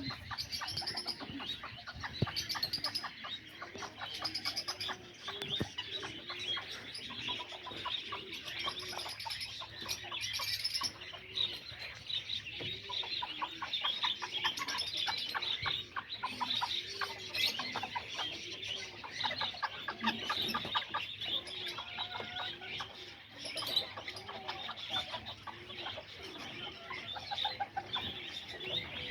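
Kikiriki bantam chickens clucking and birds chirping, with a low call repeating about once a second underneath.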